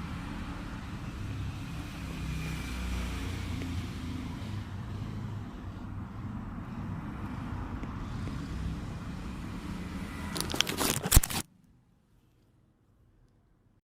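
Steady low background rumble and hiss from open microphones on a video call, ending in a short burst of crackling clicks about eleven seconds in, after which the audio cuts off abruptly to silence.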